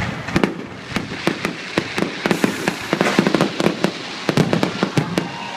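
Fireworks show exploding, a rapid irregular run of sharp bangs and cracks that often overlap, thickest in the middle and again about four to five seconds in.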